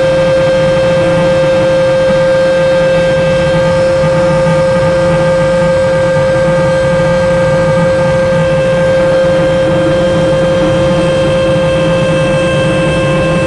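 Mark VII AquaJet GT 700 automatic car wash running: a loud, steady machine whine over a constant rushing noise, with no change in pitch or level.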